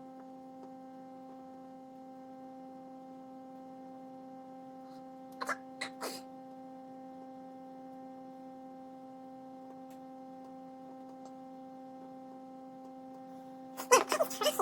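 A steady electrical hum throughout, with three light clicks about five and a half seconds in and a quick cluster of louder clicks and taps near the end, the handling noise of soldering work.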